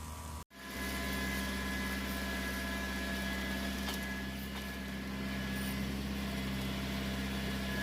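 Tractor engine running steadily, with a thin steady high tone above the hum. The sound drops out briefly about half a second in, then the engine resumes.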